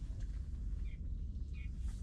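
Steady low outdoor rumble, with a small bird chirping twice in the second half.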